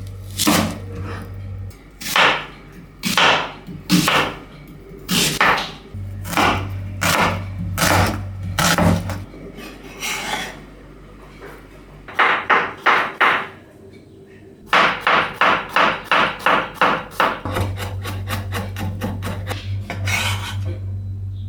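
Knife chopping vegetables on a wooden cutting board: separate cuts about once a second, then a quick run of about four to five chops a second.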